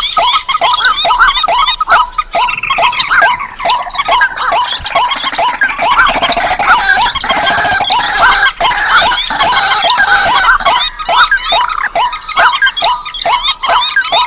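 A bird-lure recording of rice-field and swamp rails (moorhens, crakes and waterhens) calling over one another. Short, hooked calls repeat rapidly, about four or five a second, and thicken into a denser chorus in the middle.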